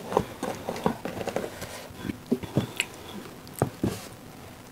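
Close-up eating sounds: chewing with lip smacks and small wet clicks coming irregularly, several a second.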